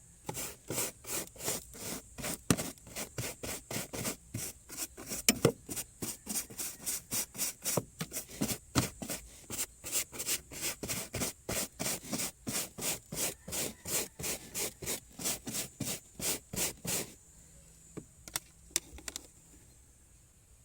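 Hand brush scrubbing back and forth in quick, even strokes, about three a second, stopping about three quarters of the way through with only a few strokes after.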